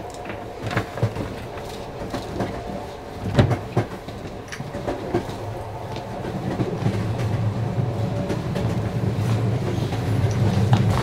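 A train running on the rails: a steady low rumble with irregular clicks and clacks from the wheels, the rumble growing louder about halfway through.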